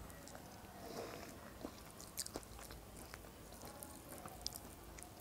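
Faint chewing of a mouthful of ridge gourd pulao rice, with a few small clicks.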